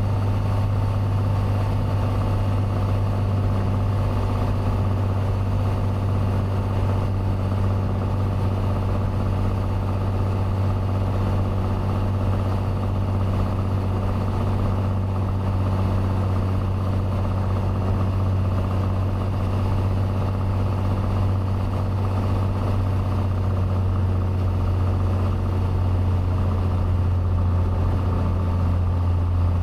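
Cessna 182T's Lycoming IO-540 six-cylinder engine and propeller droning steadily, heard inside the cabin, with the pitch easing slightly lower near the end.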